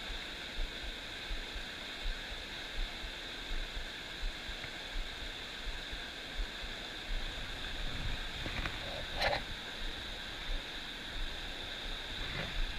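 Steady rushing of a stream's flowing water, with a few soft low thumps and a brief higher sound about nine seconds in.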